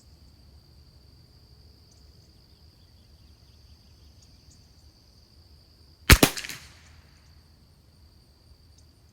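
A single shot from a Christensen Arms Ranger .22 LR rifle about six seconds in: one sharp crack with a short echoing tail. Crickets keep up a steady high-pitched chirring throughout.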